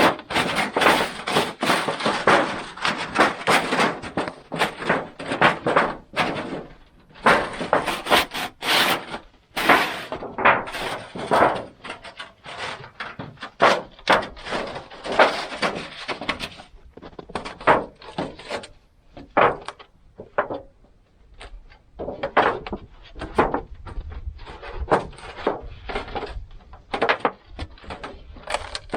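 Irregular wooden and metal knocking and clattering, with some scraping, from hands-on work fitting a homemade sheet-metal stovepipe: many sharp strikes in quick succession, with a short lull about two-thirds through.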